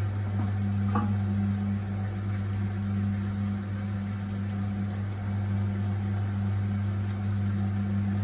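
Beko washing machine's drum spinning steadily at high speed in its final spin, about 1000 rpm, giving an even, low hum with a single light knock about a second in.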